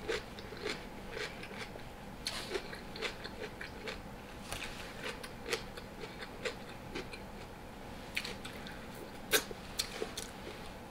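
A person chewing crunchy cucumber close to the microphone: irregular wet crunches and mouth clicks, one or two a second.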